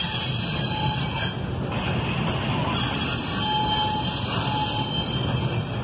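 Double-stack intermodal well cars of a freight train rolling past, their wheels on the rails making a steady rumble.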